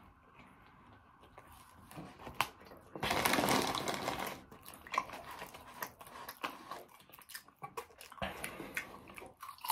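Eating sounds close to the microphone: crunching and chewing with scattered crackles, and a louder crunching, rustling stretch about three seconds in that lasts over a second.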